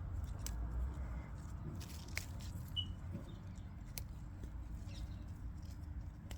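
Scattered small clicks and rustles from hands working through garden soil while lifting potatoes, over a low rumble on the microphone, with one brief high chirp a little before the midpoint.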